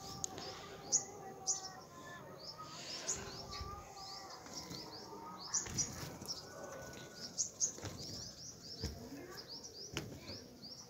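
Small birds chirping: many short, high chirps repeating throughout, with a few sharp clicks.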